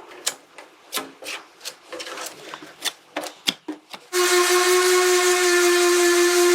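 Quick, irregular scraping or knocking strokes by hand, several a second. About four seconds in, a loud, steady hiss with a held whine starts suddenly, as from an air-powered or motorised tool.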